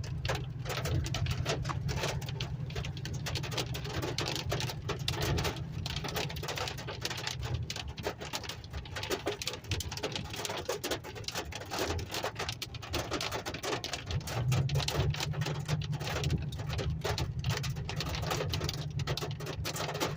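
Hail pelting the roof and windshield of a moving vehicle in a dense, irregular patter, heard from inside the cabin over a steady low hum of engine and road noise.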